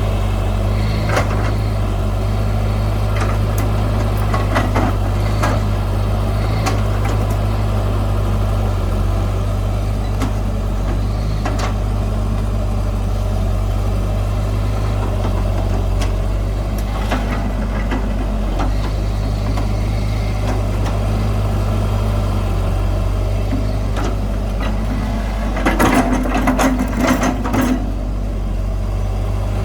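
Heavy diesel engine of earth-moving machinery running steadily at low revs, with scattered knocks and a louder run of clattering near the end.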